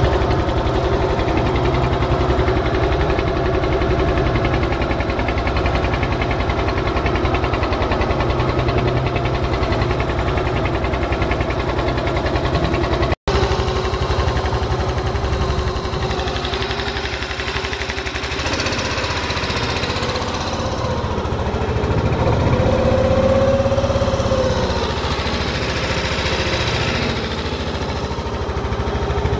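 "Ermak-S15" shallow-water boat motor running steadily, with a brief break in the sound about 13 seconds in. After the break the engine note wavers, and a short whine rises and falls over it a little past the middle.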